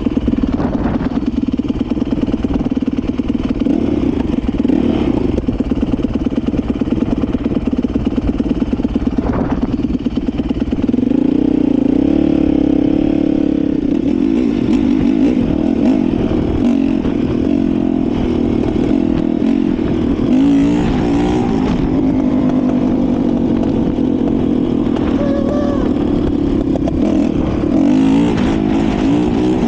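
Dirt bike engine running steadily, picking up in pitch and loudness about eleven seconds in, then holding with small rises and falls of revs.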